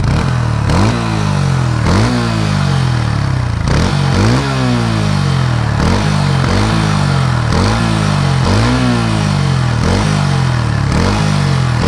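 Bajaj Pulsar N150 single-cylinder engine revved over and over in quick throttle blips, about one a second, each rising sharply and dying back toward idle. Under it is a metallic clatter that the owner calls a 'chhan chhan' noise. He says it sets in after a short ride and stays, and ties it to a tappet ticking.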